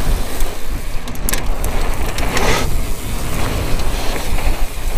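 Downhill mountain bike at speed on a rough trail: wind rushing over a helmet-mounted action camera's microphone, with tyres rumbling and the bike rattling over the ground. There are two brief scraping noises, about a second in and again midway.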